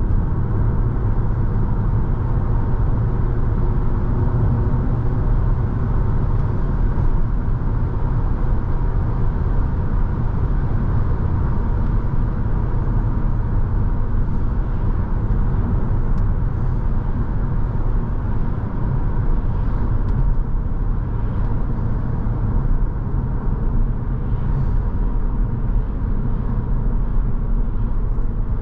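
2006 Volkswagen Passat's 3.2 VR6 with a catalytic-converter-delete exhaust, driving at a steady pace: an even engine and exhaust drone mixed with tyre and road noise.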